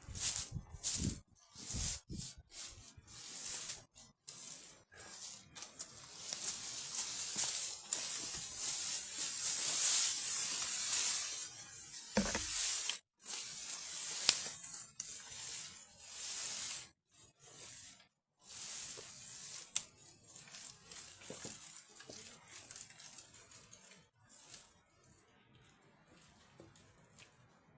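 Irregular rustling and crackling noise in uneven bursts that cut off sharply, loudest around ten seconds in, with a dull thud just after twelve seconds.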